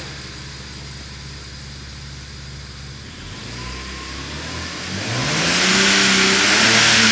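BMW N54B30A 3.0-litre twin-turbo straight-six idling, then revved up: its pitch rises from about three seconds in, climbs to a loud, hissing peak held for about two seconds, and starts to drop back near the end.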